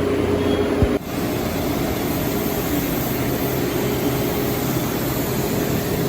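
Steady machine running with a low hum and hiss, broken by a short thump and an abrupt change about a second in, after which the running continues.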